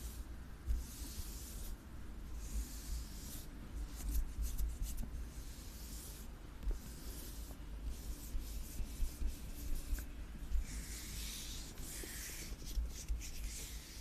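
Close-miked scratching and rubbing on an object, in repeated strokes: some about a second long, a run of short quick ones in the middle, and a longer, fuller stroke near the end.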